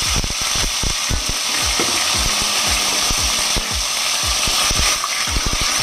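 Chicken breast frying in hot oil in a wok, a steady hiss of sizzling with frequent crackling pops of spattering oil.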